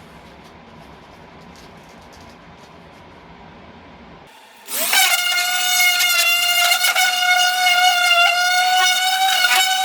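A low steady background noise, then, about five seconds in, a power tool's motor spins up with a quick rising whine and runs at a steady high pitch.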